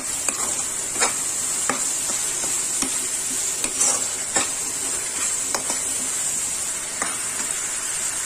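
Onion, capsicum and tomato masala sizzling in oil in a kadhai while a metal spatula stirs it, scraping and clinking against the pan at irregular moments. The masala is being fried down so it loses its raw taste.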